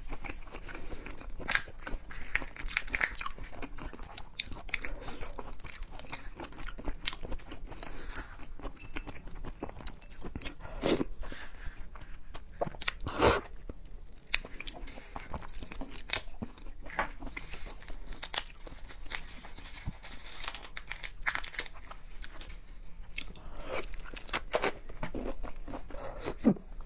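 A person chewing and biting seafood close to the microphone, with irregular crunches and crackling clicks.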